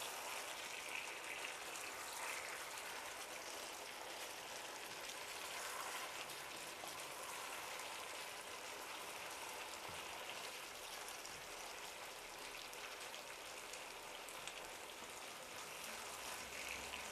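Potato wedges and salted pork sizzling steadily in a frying pan over high heat as they are turned with a wooden spatula: a fine, even crackle.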